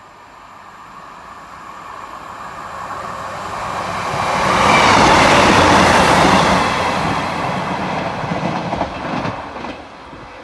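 Two-car Class 156 diesel multiple unit running past along the platform. Its noise builds as it approaches, is loudest about five seconds in, then fades as it moves away.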